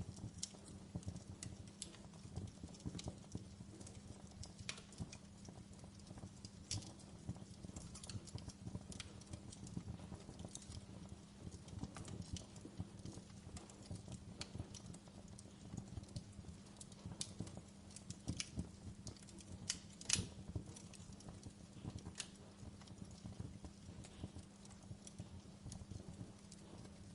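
Wood fire burning in a fireplace, crackling with irregular sharp pops over a steady low rumble; one louder pop about two-thirds of the way through.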